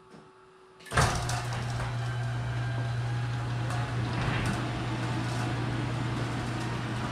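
BMW M1000RR's inline-four engine starting about a second in and then idling steadily, loud in a garage.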